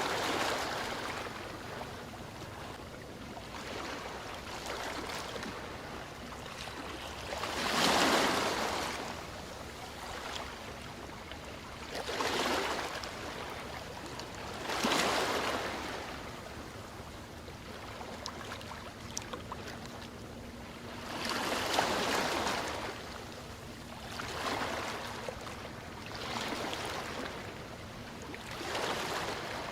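Ocean waves breaking and washing on a shore, a swell of surf rising and falling every few seconds, the loudest about eight, fifteen and twenty-two seconds in, with a faint steady low hum beneath.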